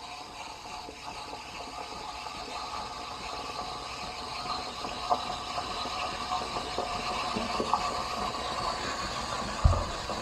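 Espresso machine steam wand frothing half-and-half in a small metal jug: a steady hiss with a whistling tone, growing gradually louder as the froth rises. A low thump near the end.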